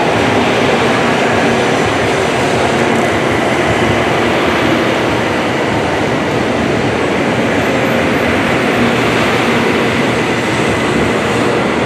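Shinkansen Class 923 Doctor Yellow inspection train rolling in past the platform. Its cars make a loud, steady rush of wheels on rail and running noise, with a faint steady high whine over it.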